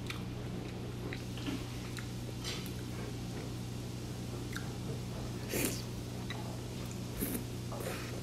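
Close-miked chewing of microwaved pasta: soft wet, squishy mouth sounds and small clicks, with a few louder bites, over a steady low hum.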